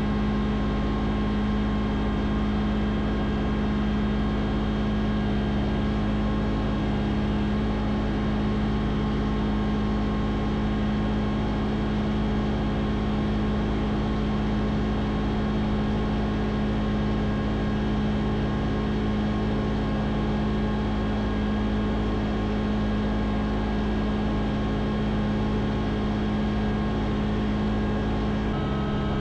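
A motor running steadily at constant speed, an even mechanical hum that holds unchanged, with a slight shift in its tone near the end.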